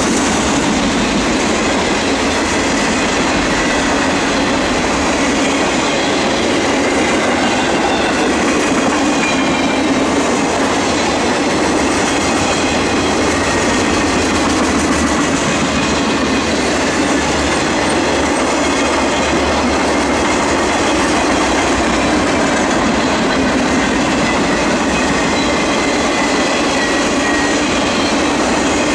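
Freight cars (container cars and loaded flatcars) rolling past close by at steady speed: a continuous heavy rumble of wheels on rail, with faint high wheel squeal wavering in and out.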